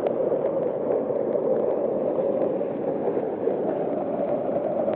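Rainwater from a flooded field pouring and gurgling steadily into a well.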